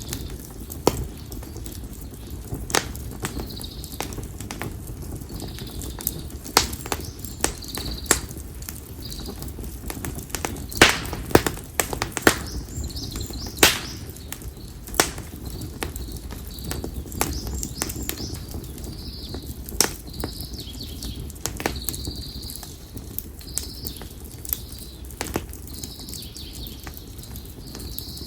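Konara oak firewood burning in an open campfire, crackling with irregular sharp pops, the loudest about eleven and fourteen seconds in. A small bird repeats a short high chirp every second or two over a low steady rumble.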